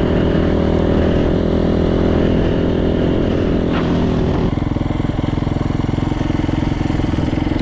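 Rebuilt Yamaha YZ450 single-cylinder four-stroke dirt bike engine running under way. About halfway through, the revs drop and the note falls to a slower, chugging beat.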